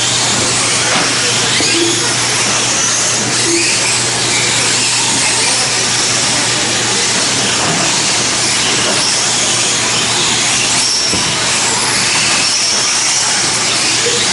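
Brushless electric RC short course trucks racing on a dirt track: a steady hiss of tyres and motors with faint high whines rising and falling as trucks speed up and slow, over a low steady hum.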